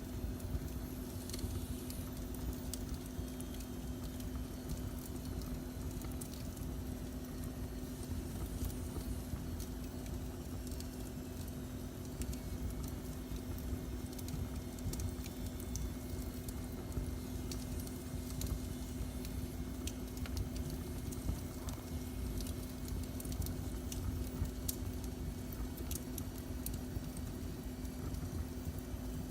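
Wood fire burning in a fireplace: scattered sharp crackles and pops over a steady low rumble, with a constant low hum underneath.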